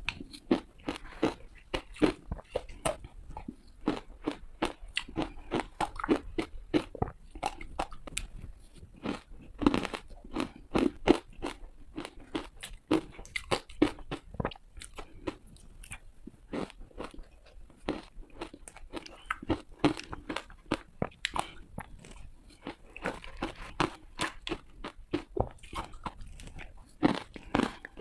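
Close-miked bites into hard ice: a dense, irregular run of sharp crunches and cracks.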